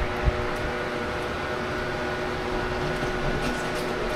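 A steady machine hum with a few held tones, like a motor running, and a single light knock about a third of a second in.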